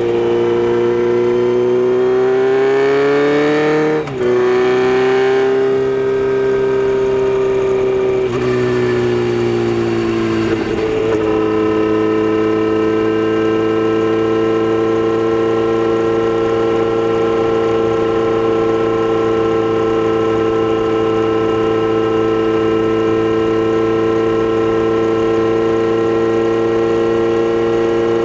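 Kawasaki Z900RS inline-four on a Holeshot Lextek header and 10-inch Bad Boy muffler, heard from under the seat while riding. The engine note climbs through the gears, with the pitch falling at three upshifts in the first eleven seconds or so, then settles into a steady cruise.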